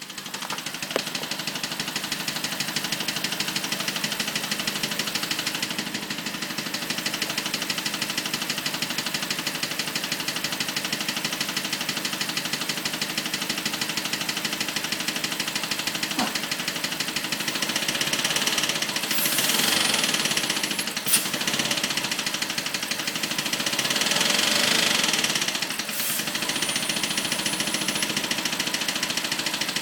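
BMW 545i's engine running at idle with a fast, steady clicking from the engine. The sound swells louder twice in the second half, with one sharp click between the swells.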